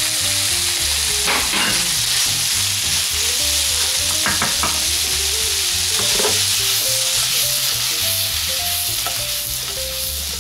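Par-boiled carrot slices sizzling and frying in hot olive oil with harissa and garlic in a frying pan. They are stirred with a wooden spoon, which scrapes the pan a few times: around a second and a half in, around four seconds, and around six seconds.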